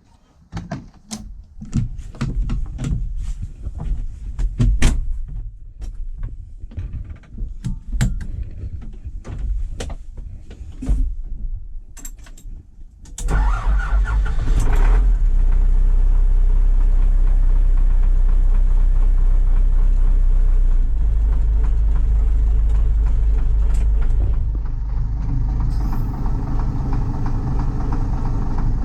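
A run of irregular metallic knocks and clanks, then about 13 seconds in a tractor engine starts and runs steadily, its note changing around 24 seconds in.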